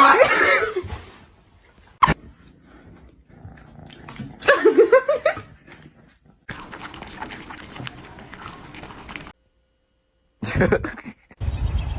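Pet animal sounds from a string of short clips: a loud call at the start, a sharp click about two seconds in, and another short call with a bending pitch midway, followed by a few seconds of noisy rustling and a brief silence.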